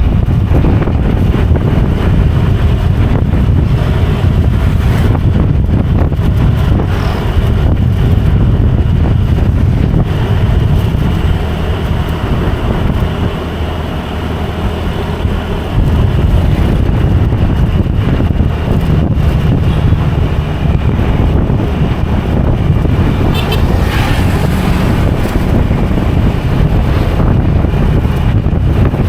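Motorcycle engine running under way with wind buffeting the microphone. It eases off about halfway through and picks up again a couple of seconds later.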